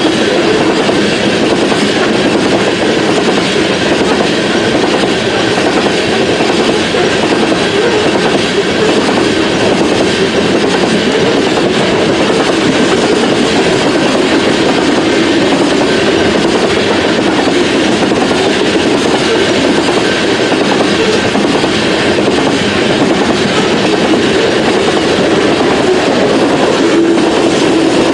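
BNSF freight train passing: a steady rumble of rolling cars with wheels clattering over the rail joints.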